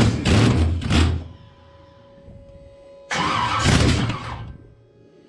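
Chevy small-block V8 cranked over by its starter in two short attempts, the first stopping about a second in and the second starting about three seconds in, without the engine catching and running. The crew suspects the distributor may have moved, which would throw the ignition timing off.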